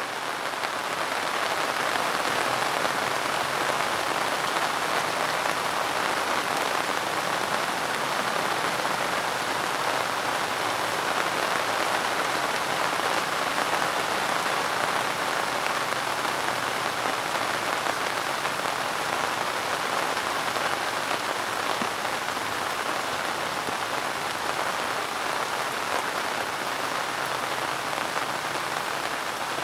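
Steady rain falling and pattering on a surface, an even hiss with scattered drop ticks, fading in over the first second.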